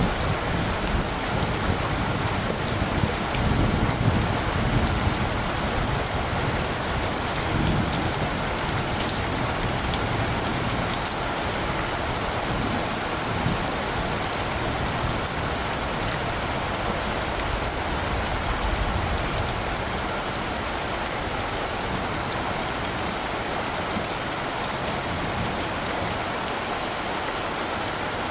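Steady rain falling, with a low rumble of distant thunder between about three and nine seconds in.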